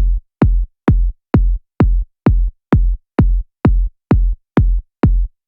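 Electronic dance-music kick drum playing alone in a steady four-on-the-floor pattern, about two thumps a second (roughly 130 beats per minute). Each kick is a short, deep thump that drops quickly in pitch.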